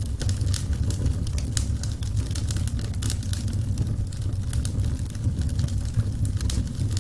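Burning wood fire: many sharp crackles and pops, several a second at irregular intervals, over a steady low rumble of the flames.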